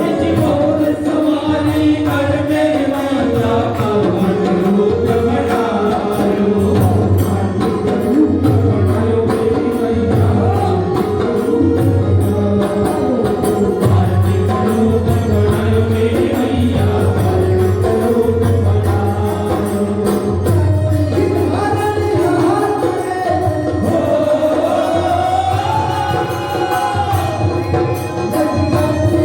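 A Hindu devotional bhajan to the Chausath Jogani (the sixty-four yoginis), a voice singing a wavering melody over drums and jingling percussion that keep a steady beat.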